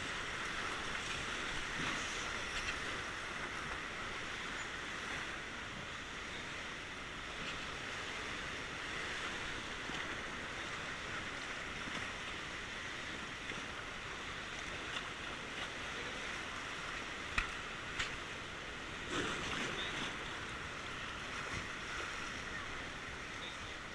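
Steady rush of fast-flowing river water around a raft, with a couple of short knocks about two-thirds of the way through.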